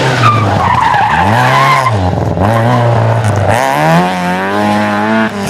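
Rally car engine revving hard, its pitch climbing and dropping three times through gear changes, with tyres squealing during the first two seconds.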